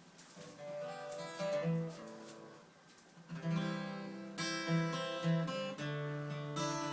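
Acoustic guitar playing an instrumental intro: single picked notes at first, then full strummed chords from about three seconds in.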